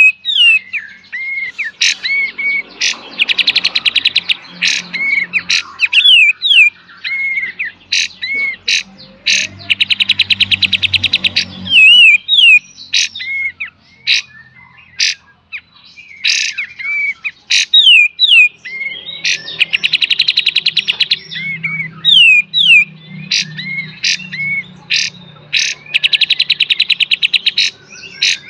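Kapas tembak, a bulbul, singing its full song: sharp clicking 'tembak' notes and short down-slurred whistles, broken four times by rapid buzzing 'beset' rattles lasting one to two seconds each.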